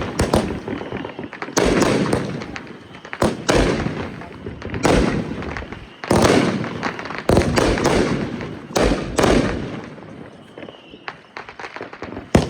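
Consumer fireworks going off in quick succession: a string of loud bangs about every one to two seconds, each trailing off in a crackling, fading rumble.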